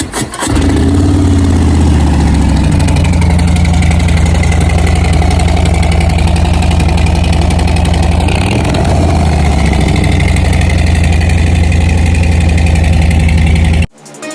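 Harley-Davidson Softail Standard's V-twin starts up and idles loudly through a new Smoke Muffler 2-into-1 exhaust, with a short rev about eight seconds in. It cuts off suddenly near the end.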